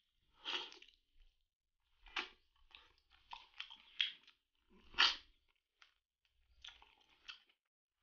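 Close-up eating sounds: a person chewing and biting stewed chicken on the bone, wet chewing and crunching in irregular short bursts. The loudest comes about five seconds in.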